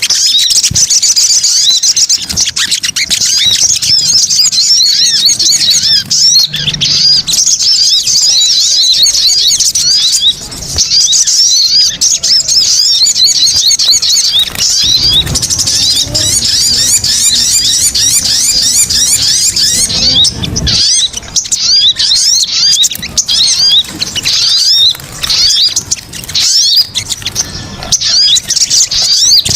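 Small-bird lure call recording (suara pikat): a dense, unbroken chatter of rapid high chirps and squeaks from many small birds, played loud to draw small birds in.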